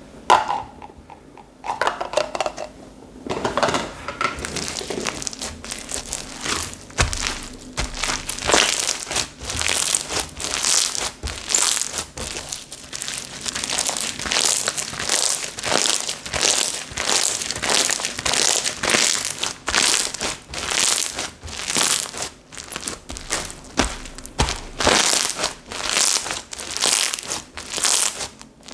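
Slime being pressed and kneaded by hand, giving dense crackling and crinkling clicks in a steady rhythm of squeezes.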